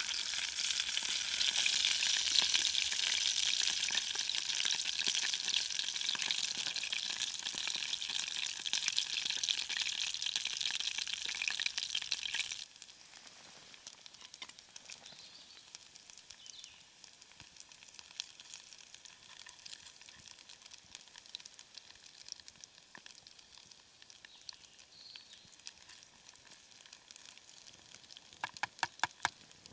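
Chopped pork sausages frying in a pan on a Trangia alcohol stove, a steady hissing sizzle. About thirteen seconds in it drops abruptly to a faint crackle, and a quick run of clicks comes near the end.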